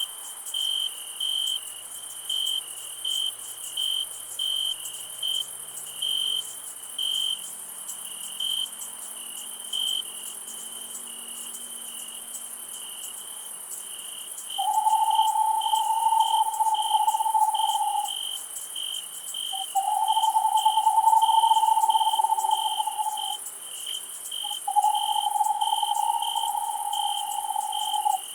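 Crickets chirping in regular pulses, about two a second, over a steady high insect hiss. From about halfway, three long, steady calls of a lower pitch, each lasting about three and a half seconds with short gaps between, rise above them and are the loudest sound.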